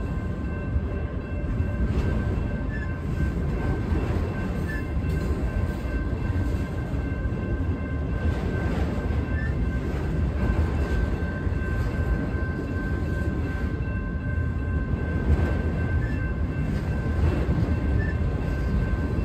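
A freight train of autorack cars rolling past close by: a steady rumble of wheels on rail, with faint clacks every second or two as the wheels pass joints. Several steady high ringing tones run over the rumble.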